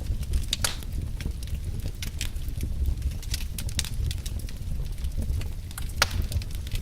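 Burning logs crackling: a low steady rumble of flame under frequent sharp pops and snaps, the loudest pop about six seconds in.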